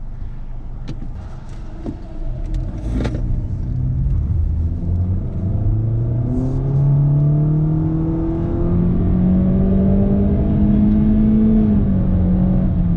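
2019 Honda Civic's four-cylinder engine accelerating through its CVT in sport mode, heard from the cabin. The engine note climbs slowly and smoothly without gear-change steps, then eases off slightly near the end.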